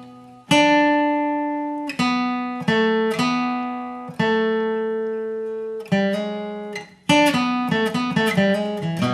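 Acoustic guitar picking a bluegrass lead line: single notes struck and left to ring, slowly at first, then a quicker run of notes in the last two seconds.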